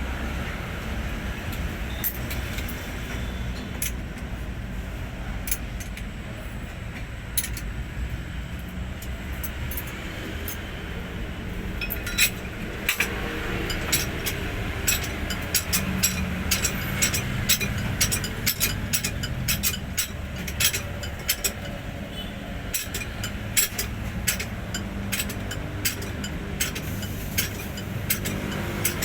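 Sharp metallic clicks and clinks of hand tools on metal during work on a Hino 500 truck engine, a few at first, then many in quick succession from about twelve seconds in, over a steady low rumble.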